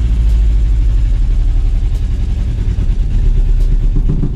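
The 1986 VW Golf Mk2's 1.8 GX four-cylinder petrol engine is running at a steady idle, heard from the driver's seat just after a cold start. It runs poorly, which the owner traces to spark plug leads swapped between cylinders.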